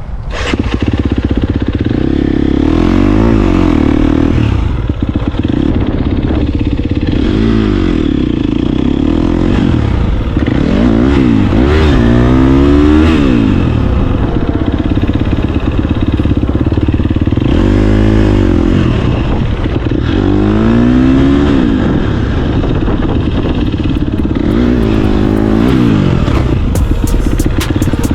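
LS V8 truck engine being revved over and over, its pitch climbing and dropping back between rough, uneven idling.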